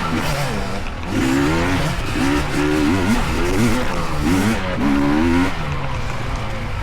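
Dirt bike engines revving up and down over and over, the pitch rising and falling every second or so as riders work the throttle through the trail.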